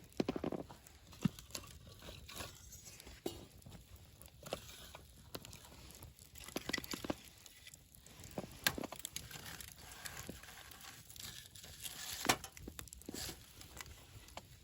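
Wood campfire burning, crackling steadily with irregular snaps and pops of the burning wood; one sharper pop stands out near the end.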